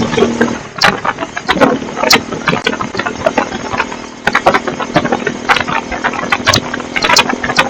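Bajaj Pulsar N250's single-cylinder engine and exhaust running. The steady idle tone breaks off about half a second in, and irregular sharp crackles and knocks follow over a fainter engine tone.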